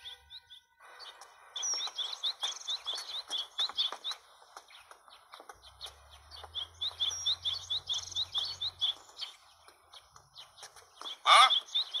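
Small birds chirping in quick runs of short, high notes, with a pause of a couple of seconds in the middle.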